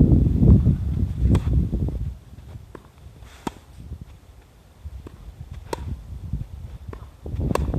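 Tennis balls hit back and forth in a volley-to-groundstroke rally: sharp racket pops roughly once a second, louder and fainter in turn. Wind rumbles on the microphone for the first two seconds.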